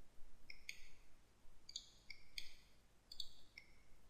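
Computer mouse clicking: a string of short, sharp clicks at an uneven pace.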